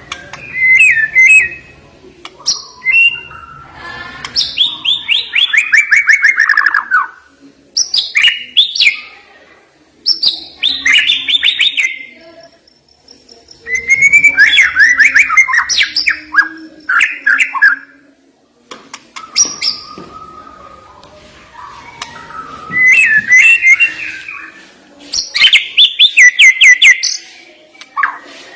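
White-rumped shama (murai batu) singing loudly in varied phrases, with sharp whistled notes and fast stuttering trills. The phrases are separated by short pauses.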